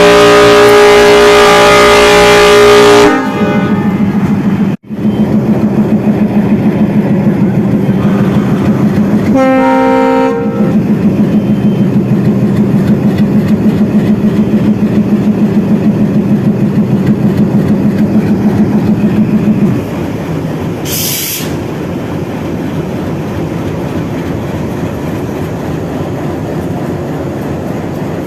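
WDM3A diesel locomotive's horn sounding loudly for about three seconds. Then its ALCO 251 V16 diesel engine chugs in a steady pulsing rhythm as the locomotive pulls away, with a second short horn blast about ten seconds in. Near twenty seconds the engine note fades out, leaving a lower rumble of the train rolling and a brief hiss just after.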